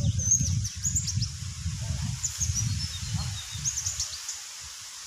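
Small birds calling in many short, high chirps and whistles, over a low rumbling noise that fades out about four seconds in.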